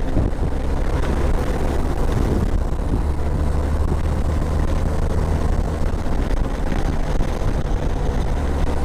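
Motorcycle engine running at a steady cruising speed, a constant low drone mixed with wind and road noise.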